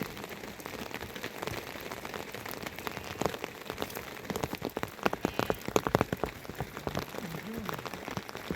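Rain falling, with many drops tapping sharply on a nearby surface; the taps come thickest about five to six seconds in.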